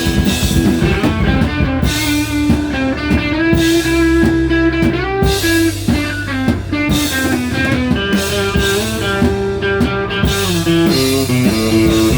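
Instrumental rock passage between sung verses: guitar lines over a drum kit, with recurring cymbal crashes every couple of seconds.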